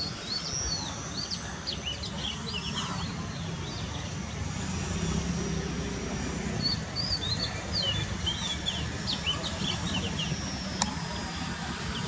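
Small birds chirping and twittering in two spells of quick calls, over a steady low outdoor rumble. A single sharp click comes near the end.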